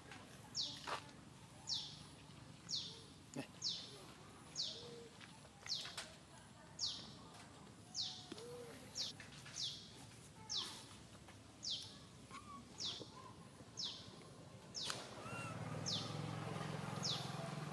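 A bird calling over and over, a quick high chirp falling in pitch about once a second, with a few faint short calls lower down. A low steady hum comes in near the end.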